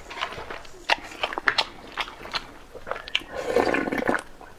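A person chewing and biting food, with many short, sharp crunchy clicks and a louder, longer stretch of eating noise about three and a half seconds in.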